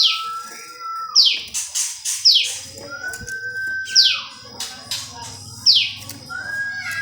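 Prenjak lumut songbird calling: sharp notes that sweep quickly down in pitch, repeated about once a second, alternating with a longer level whistle held for about a second that drops off at its end.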